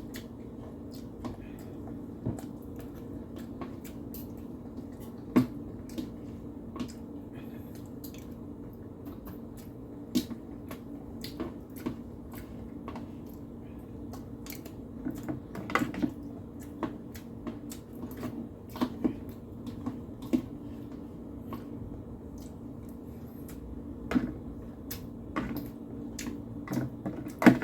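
Irregular light clicks and taps of dishes and utensils being handled during a meal, over a steady low hum.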